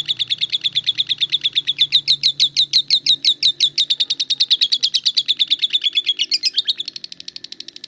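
A lovebird chattering without a break in rapid sharp notes, about ten a second: the long "ngekek" song that Indonesian keepers call "konslet". About seven seconds in it turns quieter and the notes come faster.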